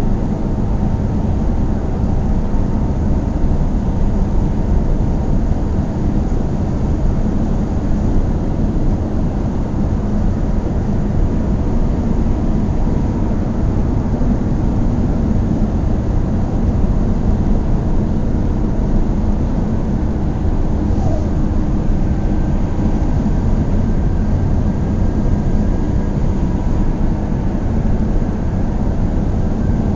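Car driving at a steady speed: an even, low rumble of engine and road noise that holds constant, with a faint steady whine joining about two-thirds of the way through.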